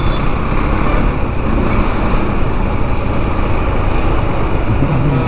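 Steady road traffic noise heard from a motorcycle riding in congested city traffic: the even mix of engines and road noise, heaviest at the low end.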